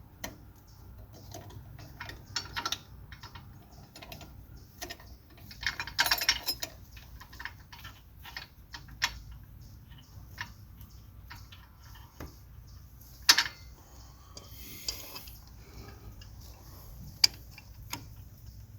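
Irregular small metal clicks, taps and clatter of hand tools and parts being handled, with a denser burst of clatter about six seconds in and a single sharp click about two-thirds of the way through.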